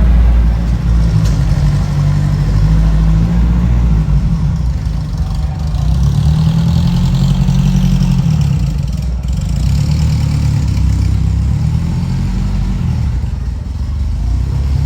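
Car engine running at a low, steady idle with a slight rise in revs partway through.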